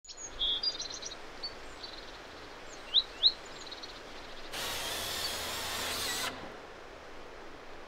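Birds chirping and calling in a conifer forest, with short trills and two loud rising chirps about three seconds in. Then a steady rushing noise lasts about two seconds and cuts off.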